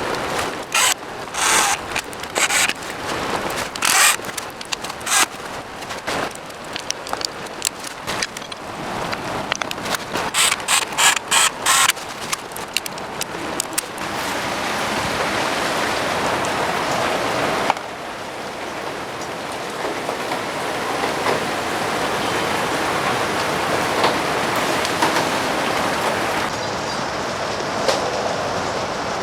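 Mechanical clicking in short rapid bursts, ratchet-like, for about the first half, then a steady hiss for the rest.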